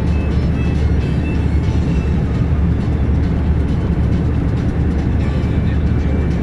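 Truck engine and road noise while driving: a steady low rumble.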